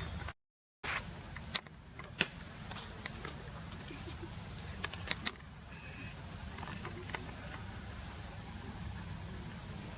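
Insects chirring steadily in the background, with a few sharp clicks scattered through. The sound cuts out completely for a moment just after the start.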